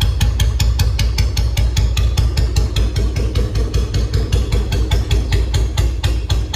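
Old Royal Enfield Bullet's single-cylinder engine idling: a steady, heavy beat of about six thumps a second over a deep rumble.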